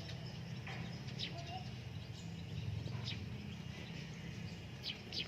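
Birds chirping in short calls every second or so over a steady low hum.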